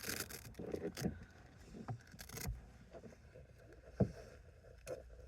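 Handling noises from working with stickers and packaging inside a car: two short rustles and several light knocks, with a sharper knock about four seconds in.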